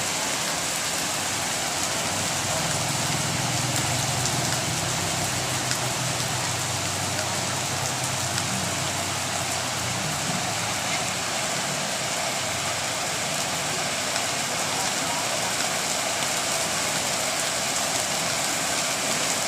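Steady rain falling and pattering on surfaces, an even hiss with no break. A faint low hum runs underneath through the first half and fades out.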